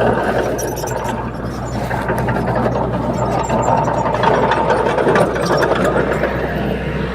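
Komatsu D21P crawler bulldozer's diesel engine running steadily under work, with a rapid clatter of metallic clicks from the machine.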